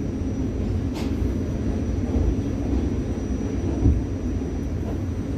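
New York City subway car running along the track, heard from inside the car as a steady low noise with a faint steady high whine; a single sharp click about a second in.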